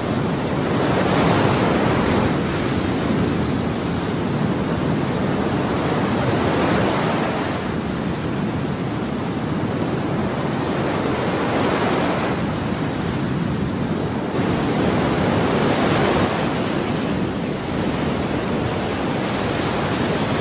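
Ocean surf in a steady rush, swelling about every five seconds as each wave breaks and washes in.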